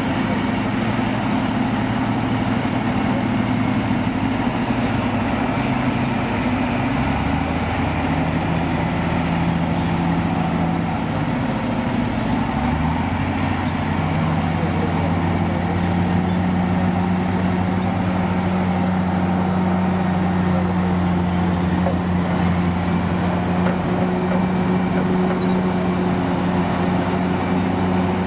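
Heavy diesel engines of old trucks or construction machines running steadily. The engine speed changes about seven seconds in and again near thirteen seconds.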